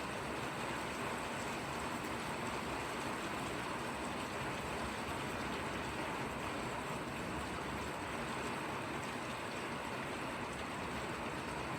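Steady rain falling, an even hiss with no breaks or single loud drops standing out.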